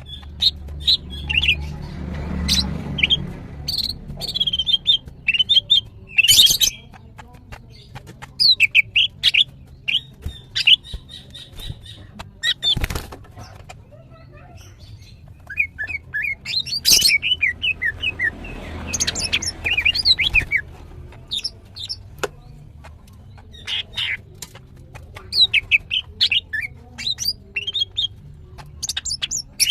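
Female cucak ijo (green leafbird) calling in long, rapid runs of sharp chirps and short whistled notes: the excited calling of a female in breeding condition, used to stir males into song. A few sharp clicks break in, two of them about 13 and 17 seconds in.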